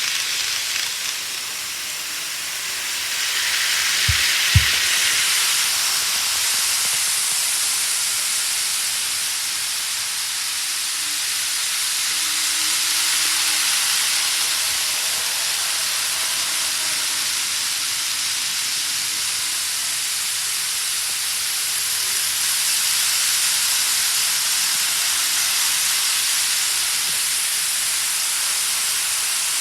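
Model trains running on a layout's track, heard as a steady hiss with two sharp clicks about four seconds in.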